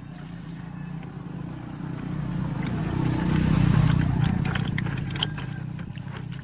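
An engine running with a pulsing low rumble that swells to its loudest just past the middle and then eases off, with light rattling clicks in the second half.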